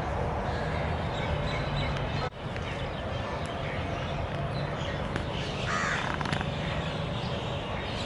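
Harsh, crow-like cawing bird calls over steady background noise, the clearest call about six seconds in. The sound drops out briefly a little over two seconds in.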